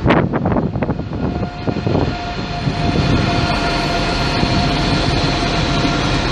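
ICE high-speed train rolling slowly past: a steady rumble of wheels on rail with a steady whine over it. Wind buffets the microphone in the first second.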